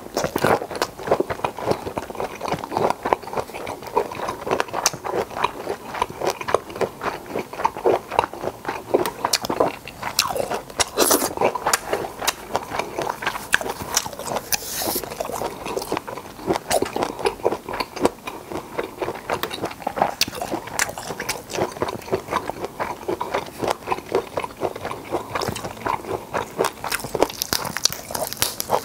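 Close-miked wet chewing and lip-smacking of black tiger prawn meat, a dense run of clicks. Near the end, the crackle of prawn shell being peeled apart by hand.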